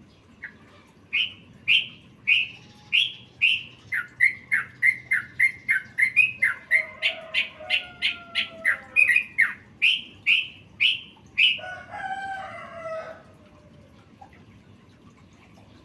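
Yellow-vented bulbul (trucukan) song packed with mimicked phrases. It is a long run of sharp, repeated chirps, about two a second at first and quickening to about four a second, followed about twelve seconds in by a lower warbling phrase.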